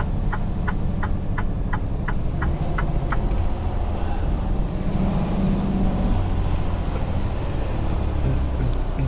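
Semi-truck engine droning steadily inside the cab, with the indicator flasher ticking about three times a second, stopping about three seconds in.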